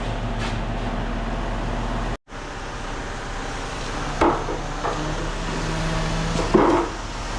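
Heavy truck engine running steadily. The sound cuts out for an instant about two seconds in, then the engine carries on with two short clanks, one about four seconds in and a louder one near the end.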